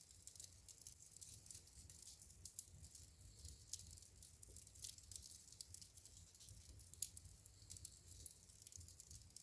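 Wood fire crackling faintly in a fireplace: irregular small snaps and pops over a low rumble, with a sharper pop about seven seconds in.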